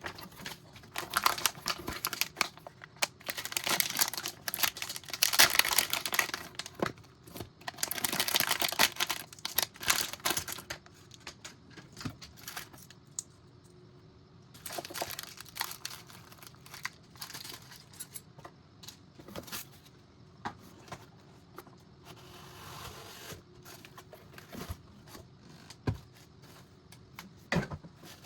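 Plastic packaging bags crinkling and being torn open, with light clicks of small parts being handled. The noise comes in irregular bursts, heaviest over the first ten seconds and returning in shorter spells later.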